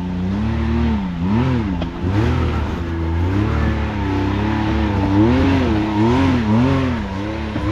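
Side-by-side UTV engine being revved up and down repeatedly in quick blips of the throttle while the machine works its way up a steep, rocky trail obstacle.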